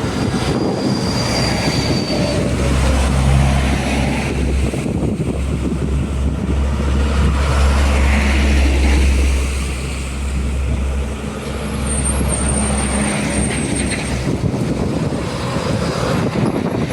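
Heavy diesel truck engine running with road traffic noise. A deep rumble swells about three seconds in and fades away after about ten seconds.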